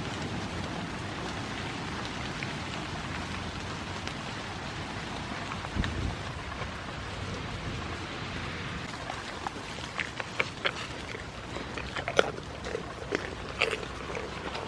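Steady hiss of rain falling on grass. From about ten seconds in come sharp irregular snaps: a goat tearing and cropping wet grass close by.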